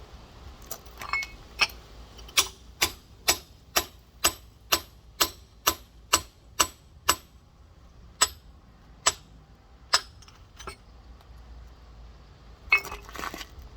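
Rock hammer tapping on a large geode: a steady run of sharp, ringing taps about two a second, slowing to a few spaced taps, as the hammer works along the crack to split the stone.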